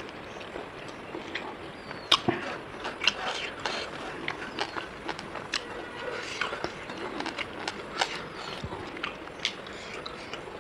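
Close-up eating sounds: chewing and mouth smacks, with irregular sharp clicks several times a second.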